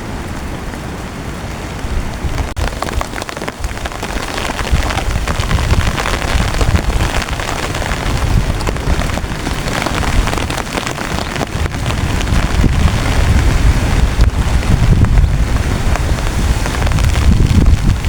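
Heavy rain pattering densely on a tent, with a low rumble of strong wind gusts that grows louder in the second half.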